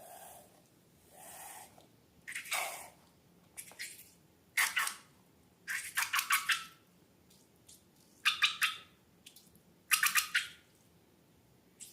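Slime being squeezed and pulled by hand, a string of about seven short squishy, crackling squelches, several of them made of quick rapid pops.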